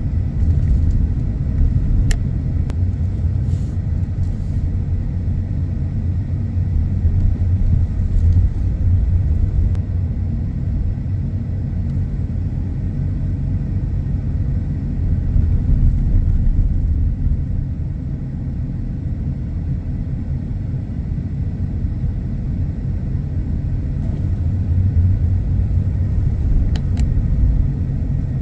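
Car driving at a steady pace: a continuous low rumble of tyres and engine.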